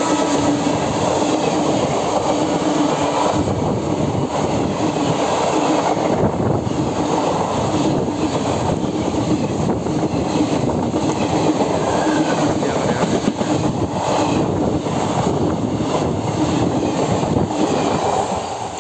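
Passenger coaches of an express train passing close by at high speed: a loud steady rush of wheels on rail with repeated clacks over the rail joints. It eases off near the end as the last coach goes by.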